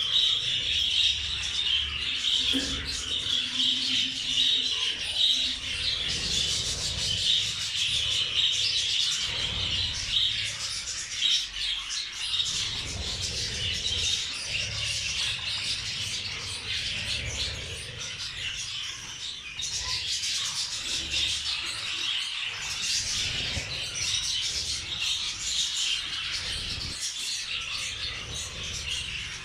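A flock of caged budgerigars chattering and chirping without a break.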